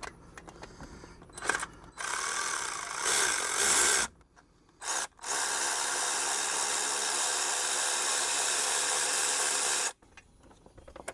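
Cordless power tool with a socket spinning a water pump bolt out of the engine: a run of about two seconds, a short blip, then a steady run of about five seconds that stops abruptly near the end.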